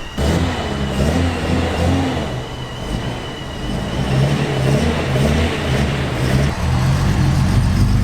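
Nissan Skyline Kenmeri's engine running and being revved, its pitch rising and falling several times.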